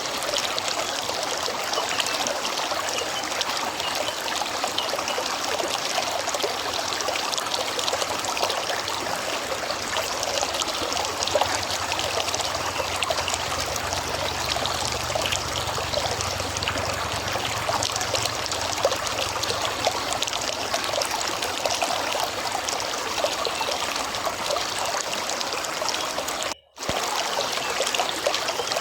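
A river flowing and trickling in a steady, even rush of water. Near the end the sound cuts out to near silence for a split second, then resumes.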